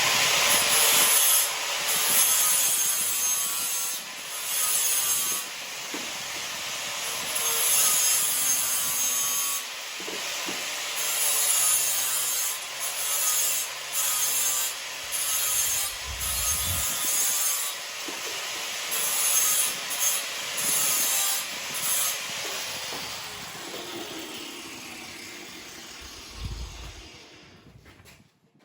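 Power tool grinding or cutting steel, worked in repeated strokes of pressure, then trailing away over the last few seconds as the tool spins down.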